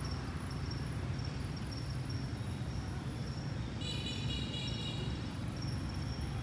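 Outdoor ambience: a steady low rumble under a thin, high, insect-like drone, with a brief high-pitched call lasting about a second and a half about four seconds in.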